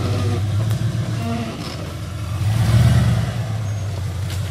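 Off-road truck engine running steadily, rising louder for about a second near the middle before settling back.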